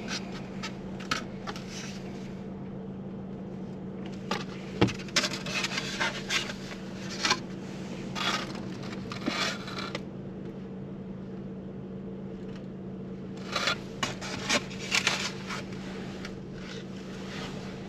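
Car engine idling as a steady low hum in the cabin, with two spells of rustling, scraping and clicking from things being handled, about a third of the way in and again near the end.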